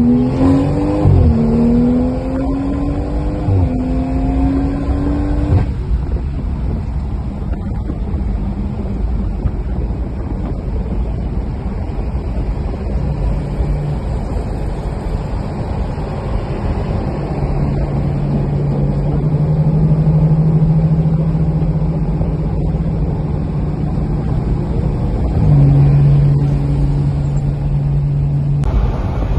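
Car engine accelerating on the highway, its pitch climbing with a brief dip about a second in, as at a gear change. After about six seconds it settles into a steady cruising drone under road and wind noise.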